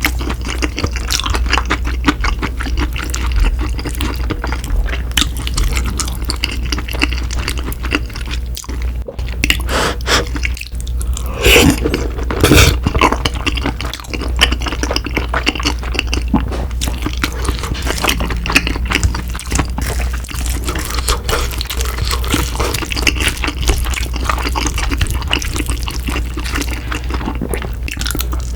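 Close-miked wet chewing and mouth sounds: rapid small smacks and squelches from eating saucy cream tteokbokki and fried snacks, with a couple of louder bites about midway.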